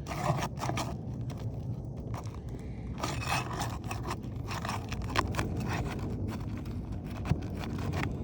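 A roofing flat bar scraping and prying under an asphalt shingle to work a roofing nail loose, with irregular gritty scrapes and crunches. The nails are pulling through the shingle rather than coming out clean.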